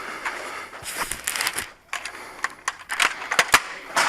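Rustling, crunching handling noise close to a body-worn camera, with a run of sharp clicks in the second half.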